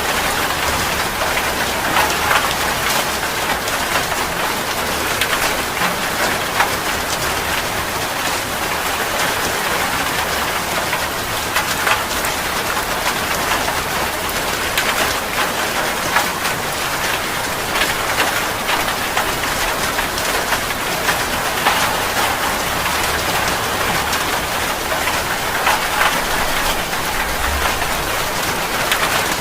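Heavy rain falling steadily, with many individual drops tapping sharply on a hard surface.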